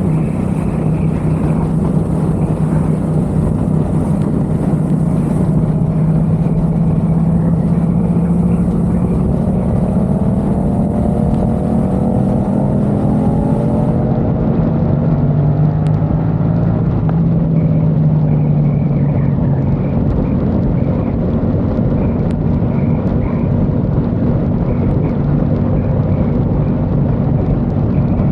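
Yamaha XSR700's parallel-twin engine through a MIVV aftermarket exhaust, running steadily on the move, with a stretch of climbing pitch near the middle.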